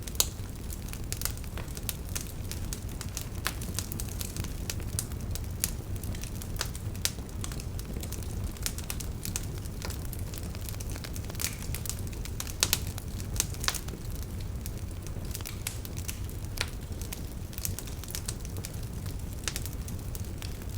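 Wood fire burning in a fireplace: a steady low rumble of flames with irregular sharp crackles and pops, a few louder pops about twelve to fourteen seconds in.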